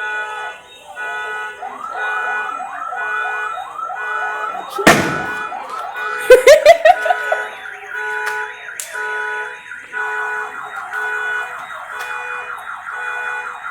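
Car alarm sounding and cycling through its patterns: a stretch of rapid warbling chirps, then steady tones beeping on and off. About five seconds in there is a loud bang, and a second later a quick run of four or five loud pops.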